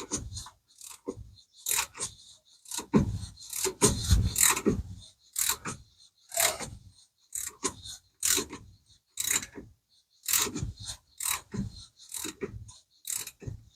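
Ratchet wrench worked in short strokes, about one a second, turning the forcing screw of a harmonic balancer puller on the crankshaft nose of a 4.3 V6. The balancer is stuck on tight.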